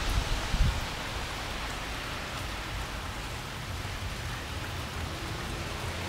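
Steady rain falling, an even hiss, with a few brief low rumbles in the first second.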